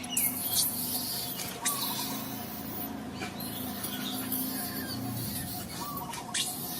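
Baby monkey making a few short, faint squeaks among scattered clicks and rustling.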